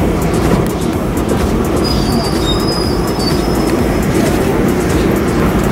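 PATH train running at the station, a steady rumble of wheels on rail with a faint, thin high-pitched wheel squeal from about two to four seconds in.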